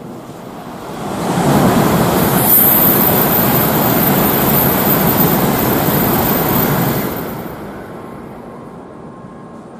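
Tokaido Shinkansen train passing through the station at high speed without stopping: a loud rushing noise that swells in over about a second, holds for some six seconds and dies away. A thin high whistle sits on top early in the pass.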